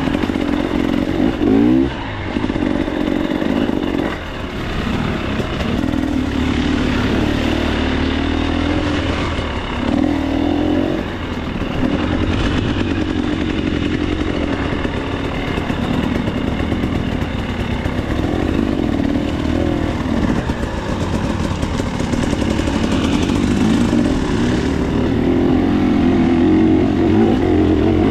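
KTM 300 XC-W two-stroke single-cylinder dirt bike engine under way on a trail, revving up and falling back again and again as the throttle is worked.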